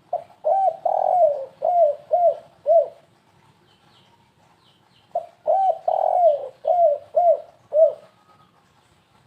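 Spotted dove (tekukur) cooing in two matching phrases, about five seconds apart. Each phrase is a couple of quick coos, one longer drawn-out coo, then three short coos: the stuttering three-note 'kuk 3 gagap' call that keepers play to lure doves.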